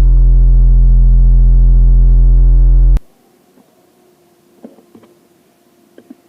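A loud, steady, electronic-sounding low hum with many overtones, cut off suddenly about three seconds in. After it there is near-quiet background with a few faint clicks.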